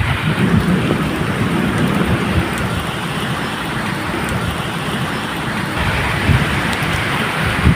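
Steady medium rain falling, with low thunder rumbling beneath it that swells about half a second in and again near the end.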